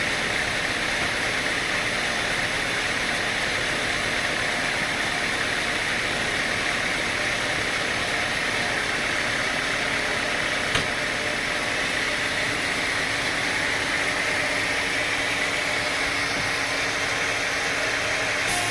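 Sawmill machinery running with a steady mechanical drone, with a single sharp click about eleven seconds in.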